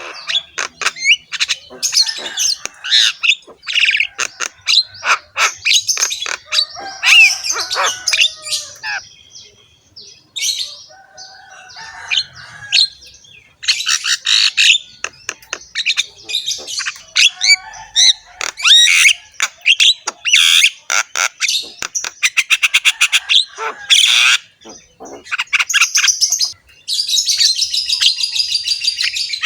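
Javan myna (jalak kebo) singing a rough-voiced, varied run of squawks, chatter and whistled notes, with a quieter spell partway through, and ending in a dense, rapid rattling chatter.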